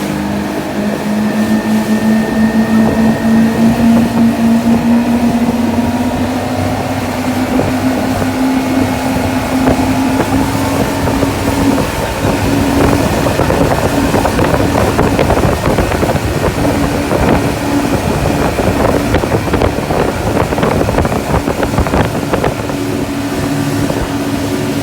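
Motorboat engine running steadily at speed as it tows the banana boat, its pitch rising a little over the first few seconds and then holding. Wind on the microphone grows rougher through the second half.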